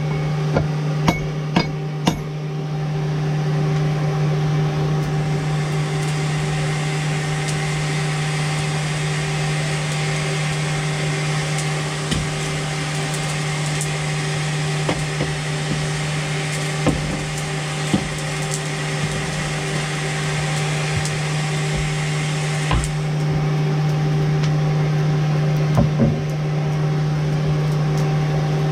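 Forge running with a steady hum and a rushing hiss through most of the middle, while metal clinks a few times as the tongs and workpiece are handled.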